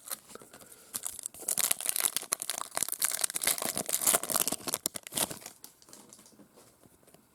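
Foil wrapper of a Topps Chrome baseball card pack being torn open and crinkled: a dense crackling from about a second in to about five seconds in, with fainter rustling of the pack and cards before and after.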